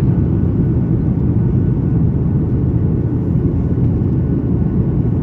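Steady, low rumbling cabin noise inside a Boeing 737-900ER airliner: engine and airflow noise from its CFM56-7B turbofans and the airframe, unchanging throughout.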